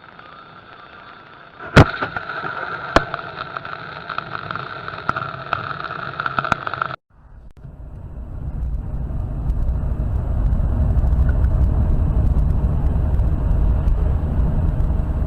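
A loud sharp bang about two seconds in, a car collision on a dashcam, followed by a smaller knock and a steady high tone that cuts off abruptly. Then low car engine and road noise rises and runs on steadily.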